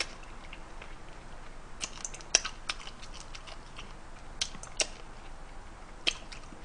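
Close-up eating sounds from chewing blue crab: scattered short, sharp clicks and crunches at irregular intervals, a cluster about two seconds in and more near the middle and end.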